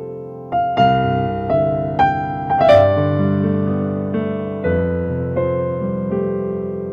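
Slow, gentle keyboard music: sustained chords and single notes struck one after another, each ringing out and fading, with no voice.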